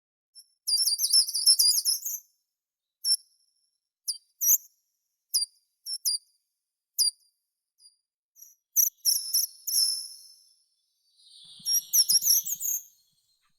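Songbirds singing: short bursts of rapid, high chirping phrases come about a second in, around nine seconds and again near the end, with single short chirps scattered between them.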